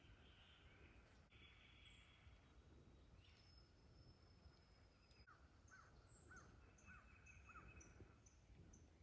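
Faint birds calling in quiet natural ambience. A thin held high note runs for a couple of seconds, then a series of short, evenly repeated calls comes about twice a second.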